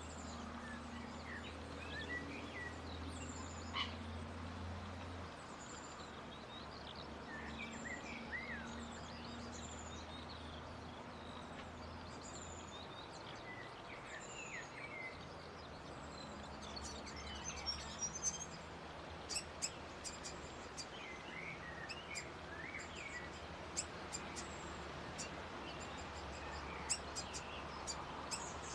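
Small birds chirping and twittering outdoors: many short, high, thin calls that overlap, with sharp rapid ticks growing more frequent in the second half, over a steady low hum.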